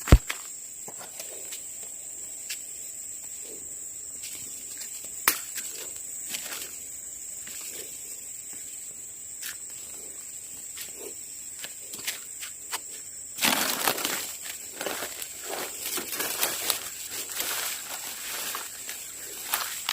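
Forest insects droning in one steady high thin tone, with a few scattered sharp clicks. About two-thirds of the way in, a stretch of rustling and crackling sets in and carries on until near the end.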